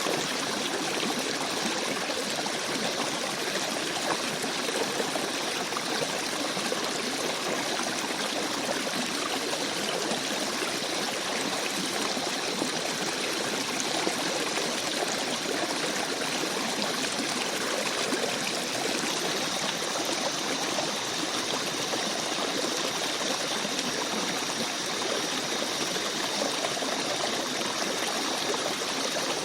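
A small stream babbling and trickling steadily over its bed, an even rush of running water.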